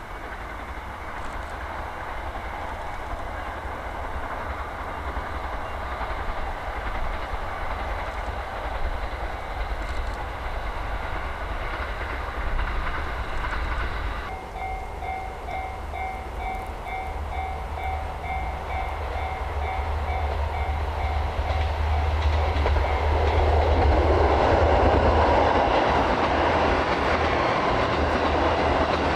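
Trains running on the rails: a steady rumble and hiss, then, after an abrupt change about halfway, a repeating on-off tone sounds while a train approaches and passes, growing loudest near the end.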